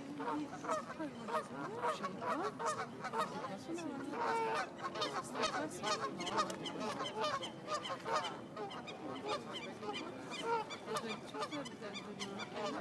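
A flock of birds calling, many short calls overlapping one another without a break.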